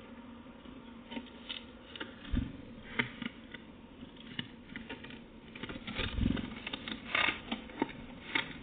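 Irregular small taps, pecks and scratches, as of a bird working at a feeder, growing busier toward the end, with a dull thump about two and a half seconds in and another about six seconds in.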